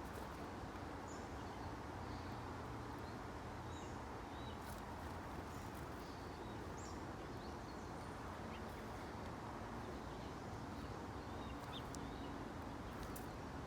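Small birds at a feeder giving short, faint, scattered high chirps over a steady low background hiss of outdoor noise, with an occasional light click.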